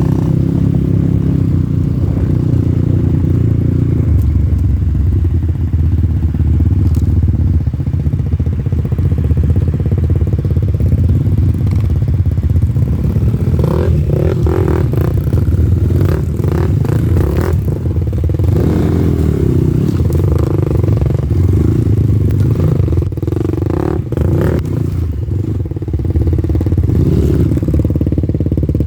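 Dirt bike engine running continuously as it is ridden, with several short bouts of clattering.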